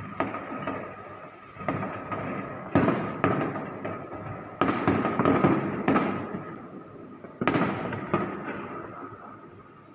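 Aerial fireworks going off in a series of sharp bangs, roughly one a second, each followed by a rumbling, crackling decay.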